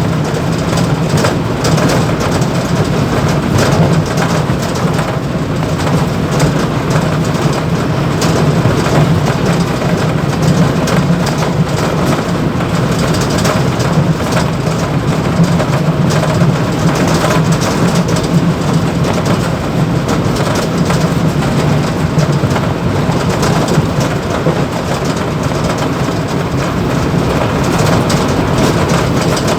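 Mumbai local EMU train running at speed, heard from inside the motorman's cab: a steady rumble of wheels on rail with continuous fine rattling and shaking of the cab and dashboard.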